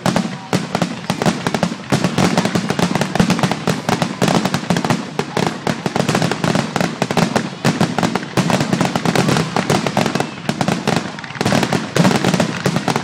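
Aerial fireworks barrage: many shell bursts going off in rapid succession, a dense, unbroken stream of loud bangs.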